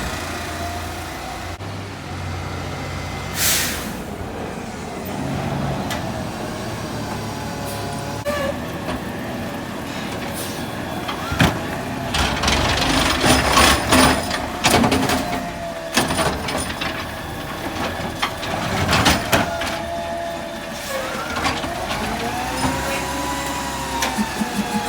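ZR rear-loader garbage truck at work: a short air hiss about three and a half seconds in, then a run of clanks and bangs midway, over the engine's steady running, with a whine that rises and falls near the end.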